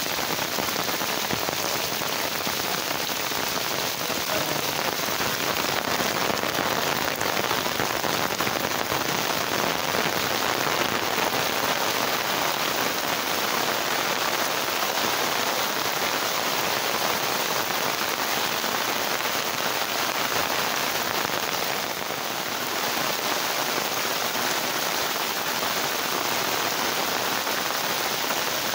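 Heavy rain falling steadily on trees, puddles and a waterlogged dirt road, a dense continuous hiss.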